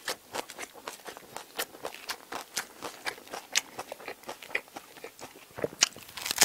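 Close-miked chewing of crusty toasted baguette bread: an irregular run of crisp crackles and crunches, with a louder crunch near the end as the bread is bitten again.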